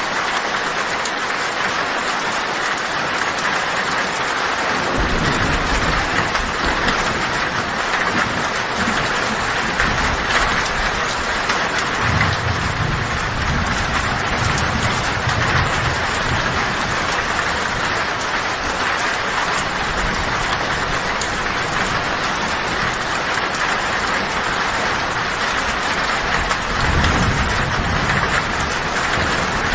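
Heavy rain drumming steadily on a tin roof. Low thunder rumbles in about five seconds in and swells twice, strongest near the middle and again near the end.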